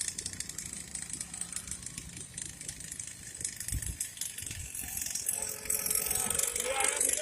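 Small 49cc petrol engine of a children's mini dirt bike running, with a rattle. The sound grows a little louder with a faint rising whine in the last two seconds.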